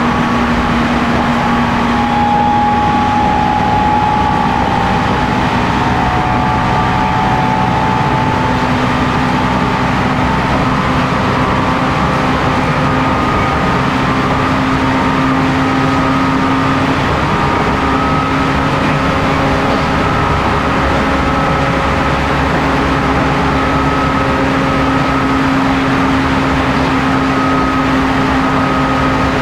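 The MT61 traction motors and gearing of a 719 series 5000-subseries electric train whining at speed over a steady running rumble. A few steady tones shift slightly in pitch.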